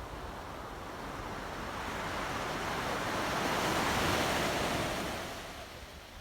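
Sea wave breaking and washing in, swelling to a peak about four seconds in and then fading away.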